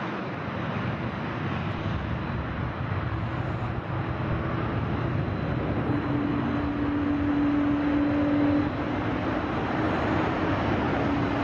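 Jet airliner's engines passing, the noise growing steadily louder, with a steady droning tone heard for a few seconds around the middle.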